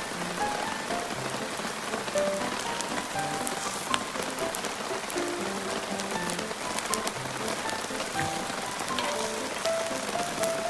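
Heavy rain falling steadily, with individual drops ticking sharply. Soft background music of short scattered notes plays underneath.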